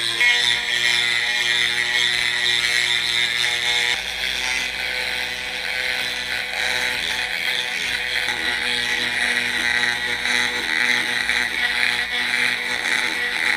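Electric power tool motor running steadily, with a strong abrasive hiss of material being worked against it.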